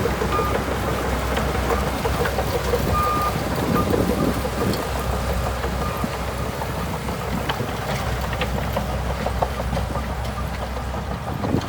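Shantui DH17C2 bulldozer's diesel engine running steadily, with a few short high-pitched tones in the first few seconds.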